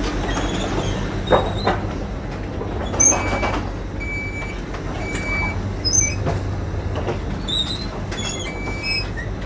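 Railway platform sound: a train standing at the platform gives a steady low rumble. Two sharp knocks come early and a scatter of short high-pitched tones runs through it.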